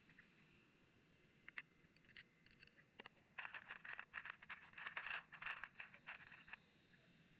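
Faint scraping and clicking: a few scattered clicks, then a dense run of quick scratchy clicks from about three and a half seconds in, lasting about three seconds.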